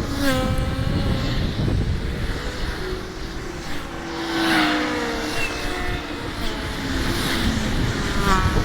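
Motorcycle engine running under a steady low rumble, its pitch dropping and rising several times.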